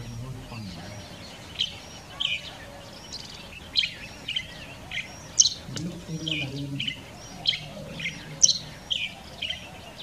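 Small birds chirping: a run of sharp, high chirps, one every half second or so, starting about a second and a half in and over fainter bird calls. A brief low, voice-like sound comes in around the middle.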